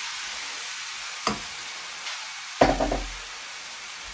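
Pearl barley, vegetables and freshly added diced tomatoes sizzling in a stainless steel saucepan, a steady hiss, while being stirred with a wooden spoon. There is a sharp knock about a second in and a louder clatter of knocks about two and a half seconds in.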